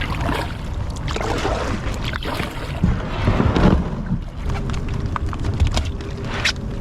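Wind rumbling on the microphone during a canoe trip, with scattered splashes and knocks from the canoe and paddle.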